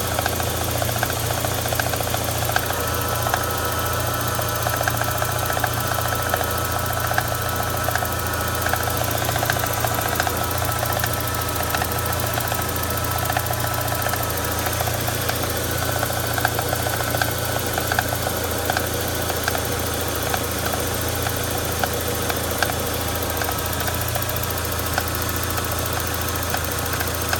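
VW Mk1 Cabriolet engine idling steadily, with an odd tapping ticking through the idle.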